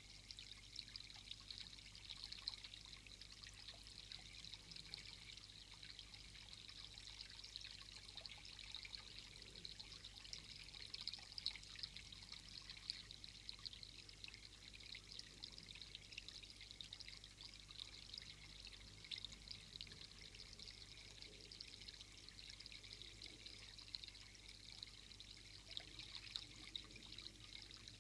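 Faint, steady high hiss with a fine crackle all through, like running water.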